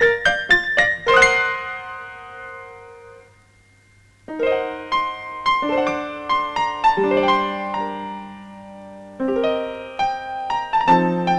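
Piano music from the film score: a quick run of notes ends on a chord that dies away into a short pause, then slower notes and chords start again.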